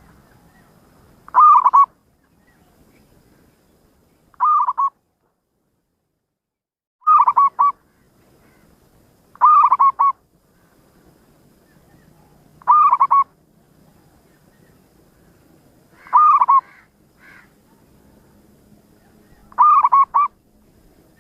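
A zebra dove (perkutut) cooing: seven short phrases of quick, run-together notes, about one every three seconds.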